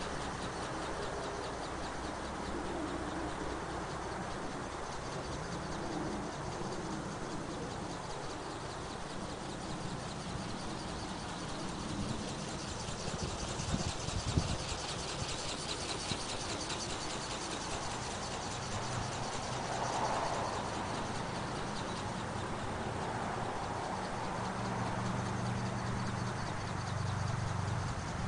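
Remote-controlled flapping-wing model bird (ornithopter) beating its wings in a fast flutter over a steady noisy background, the flutter strongest about halfway through.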